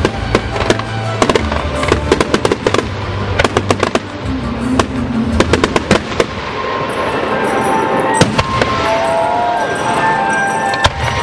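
Aerial fireworks going off in a rapid string of sharp bangs and crackles, thinning out about halfway through into a few louder bangs over a steady hissing crackle. Music plays underneath.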